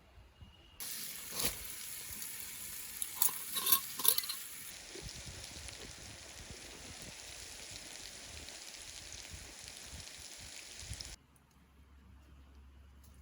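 Food sizzling in a frying pan, a steady hiss with a few sharp clicks in the first few seconds; it starts suddenly and cuts off suddenly near the end.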